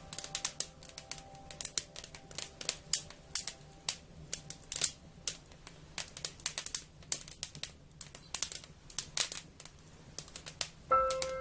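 Wood fire crackling, with irregular sharp pops and snaps, some louder than others. Soft background music with held notes fades out in the first few seconds and comes back louder near the end.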